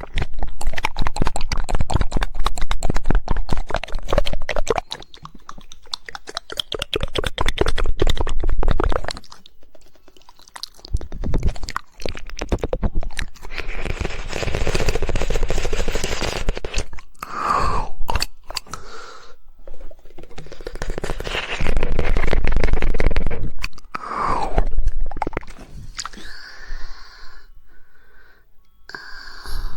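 Fast runs of tongue clicks, rattling like a woodpecker drumming, for roughly the first nine seconds. Then wet, smacking mouth sounds close to the microphone, with scattered clicks and two short falling squeaks.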